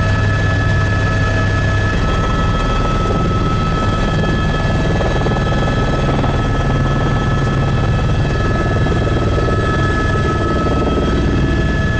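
Helicopter running steadily: a constant low drone of engine and rotor with a steady high whine above it.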